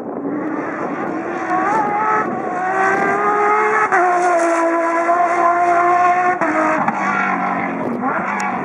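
Rally car engine pulling hard through the gears on a stage. The engine note climbs, then drops and climbs again at each gear change, a few times over the stretch.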